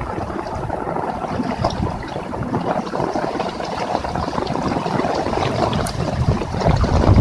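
Heavy rain falling steadily, a dense patter of countless small drops. A low rumble swells near the end.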